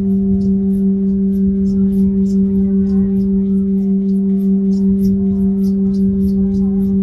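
Steady low hum at one unchanging pitch, with a fainter overtone an octave above it.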